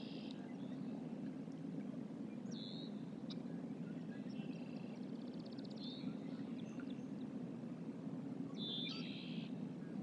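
Outdoor riverside ambience: a steady low rush with a few short, high bird calls over it, including a fast trill about halfway through and another call near the end.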